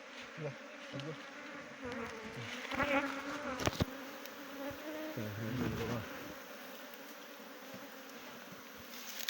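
Honeybees buzzing around an opened hive, with bees flying close past the microphone so that the hum swells and wavers in pitch, loudest between about two and six seconds in. A sharp click sounds near the middle.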